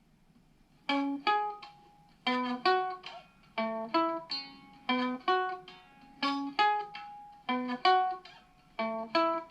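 Instrumental song intro on a plucked string instrument: a repeating figure of picked notes in short groups, starting about a second in over a faint low hum.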